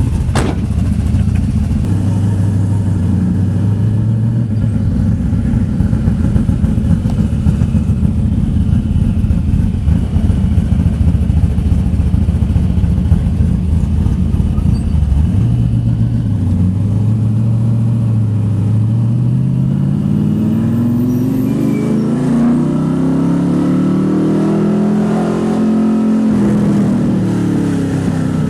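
427 cubic-inch small-block Chevy V8 with headers, in a 1969 Camaro, running loud and steady, then revving up in a long climb in pitch that drops off sharply near the end.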